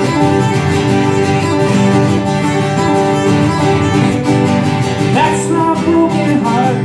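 Live band music in an instrumental break, led by guitar. A bending melody line comes in about five seconds in.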